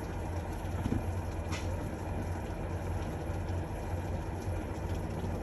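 Steady low hum of a vehicle engine running, with a faint tick or two.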